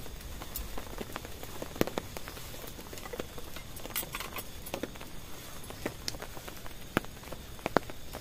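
Rain pattering on a tent: a steady hiss broken by irregular sharp taps, the loudest about two seconds in and twice near the end.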